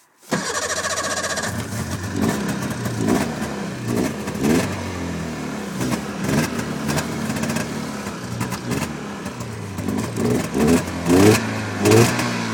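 1998 Polaris Indy Touring snowmobile's two-stroke engine catching on a cold start, then running with a steady note and repeated throttle blips that rise in pitch.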